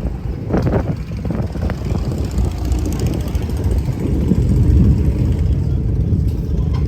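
Suzuki Hayabusa's inline-four engine running with a steady low rumble, getting louder about four seconds in.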